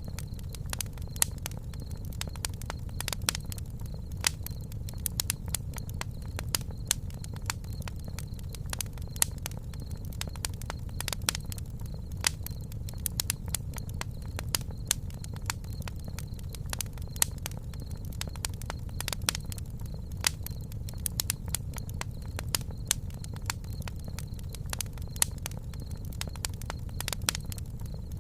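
Wood campfire burning, crackling and popping irregularly over a steady low rumble of the flames.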